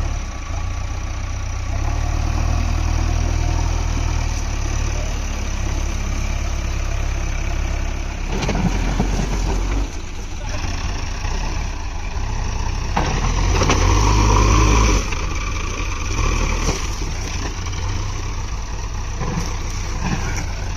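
Diesel engine of a JCB 3DX backhoe loader running steadily, rising in level twice as if working under load, then dropping back suddenly about ten seconds in and again near fifteen seconds.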